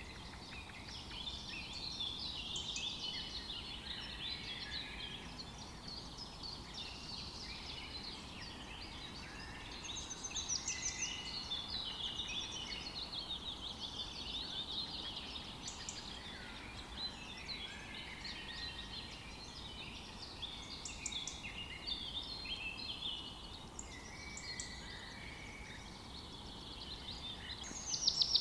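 Many songbirds singing and chirping at once, their calls overlapping, over a faint steady background hiss.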